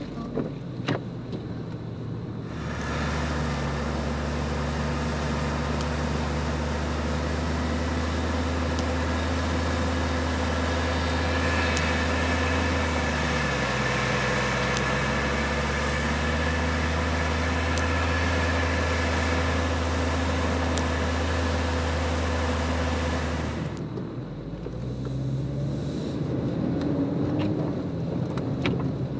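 4x4's engine revving hard and held at high revs for about twenty seconds while pushing through deep, soft snow, with a short drop in revs about halfway. Near the end the revs fall back to a quieter, lower run.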